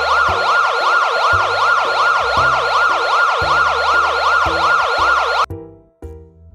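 Electronic siren wailing in a fast up-and-down warble, about three sweeps a second, over a backing-music bass line; the siren cuts off suddenly near the end.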